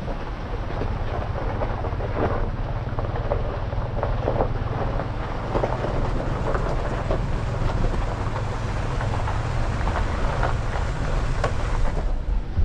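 2024 Jeep Gladiator driving on a backroad: a steady low rumble of road and drivetrain noise, with frequent small knocks and rattles as it goes over the rough surface.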